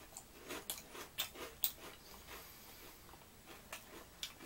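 Rippled potato chips crunching as they are chewed: irregular crisp crackles, dense in the first couple of seconds and thinning out after.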